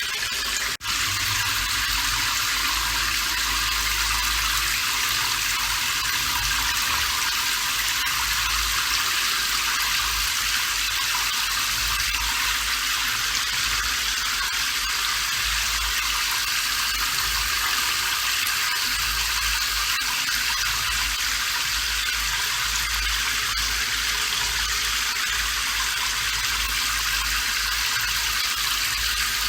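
Steady, even rain noise with a brief dropout just under a second in.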